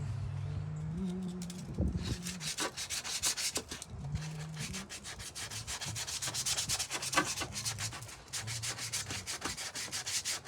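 Hand sanding of hardened Bondo body filler on wooden brick mold: quick, repeated back-and-forth scraping strokes, continuing with short pauses.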